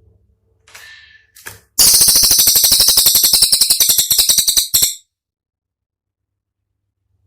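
Cililin songbird giving a loud, fast, harsh rattling trill of about three seconds, a rapid machine-gun run of sharp high notes (the 'tembakan' phrase prized for training songbirds), after a faint short call about a second in; it stops abruptly and silence follows.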